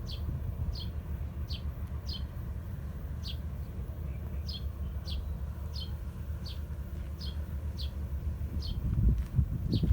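A small bird repeating a short, falling chirp about every two-thirds of a second, over a steady low rumble. A few dull thumps come near the end.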